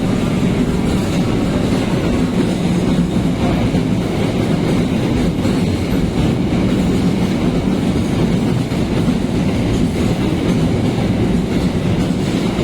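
Coal train rolling past on the rails: a loud, steady noise of wagon wheels running over the track.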